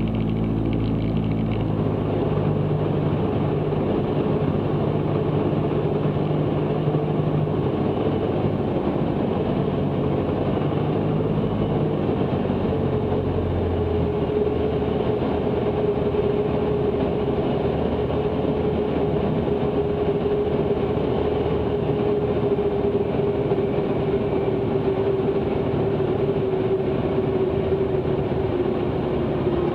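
Cessna 162 Skycatcher's engine and propeller droning steadily as heard in the cockpit, its tones shifting slightly about halfway through.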